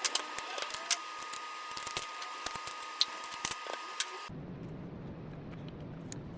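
Sharp metallic clicking and clinking over a steady high tone. About four seconds in, it cuts off suddenly and gives way to a steady low machine hum.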